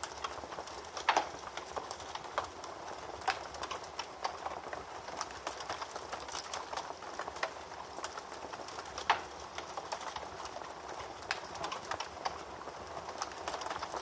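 Wood fire burning in a fireplace: a steady hiss with irregular crackling and snapping, and two louder pops, about a second in and about nine seconds in.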